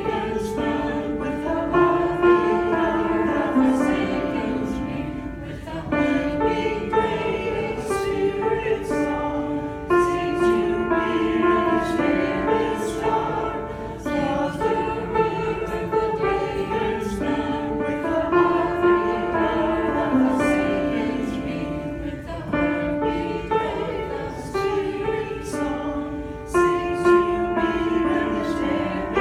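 A choir singing a slow song in long, held notes.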